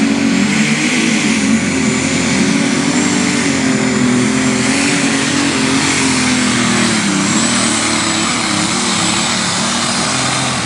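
John Deere 8345 unlimited super stock pulling tractor's engine at full power under load during a pull, a loud, steady engine note over a thin high whine.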